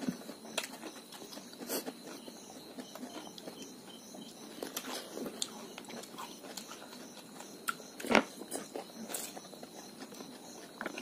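Eating sounds of raw cucumber being bitten and chewed, scattered small crunches and clicks with a spoon against the dishes, one sharper click about eight seconds in.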